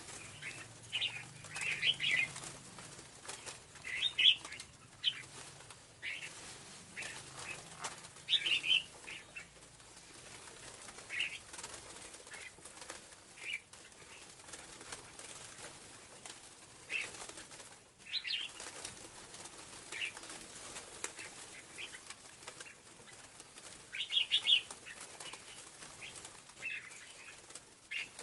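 Scarlet-backed flowerpecker calling: short, sharp high chirps, singly or in quick clusters, coming at irregular gaps of one to three seconds.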